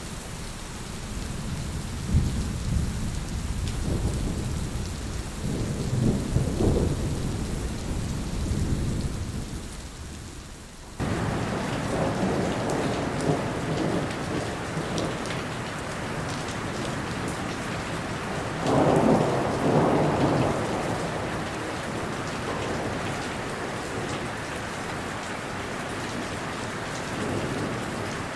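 Steady rain with thunder rumbling low in the first third, dying away before the rain cuts abruptly to a brighter, louder hiss. Another roll of thunder comes about two-thirds of the way through.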